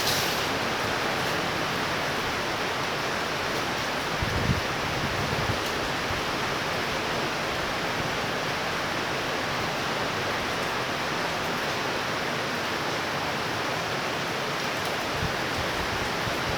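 Heavy thunderstorm rain falling in a steady, even rush, with a brief low thump about four and a half seconds in.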